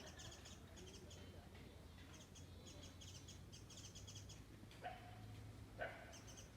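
Faint outdoor chirping of small birds: rapid high-pitched trills repeated in short bursts. Two short, louder sounds come about five and six seconds in.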